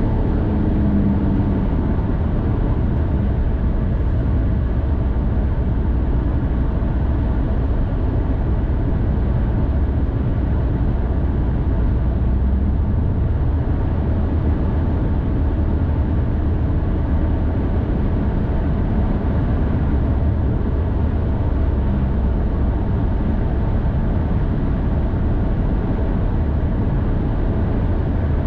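Steady low rumble of a vehicle driving along a highway: engine and road noise that holds an even level throughout.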